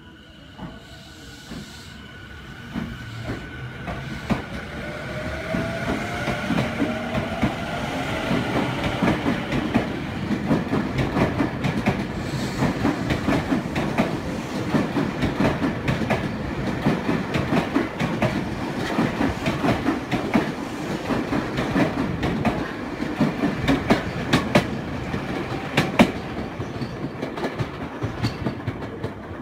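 Tokyu 5050-series "Hikarie" electric commuter train pulling out of the station: a motor whine rises in pitch as it accelerates, then its wheels clack rhythmically over the rail joints as the cars run past, easing off near the end as the train moves away.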